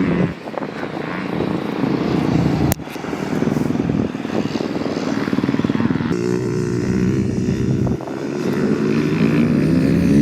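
Motocross bike engine running and revving, its pitch rising and falling with the throttle, in several short pieces that change abruptly about half a second in, near 3 s, at 6 s and at 8 s.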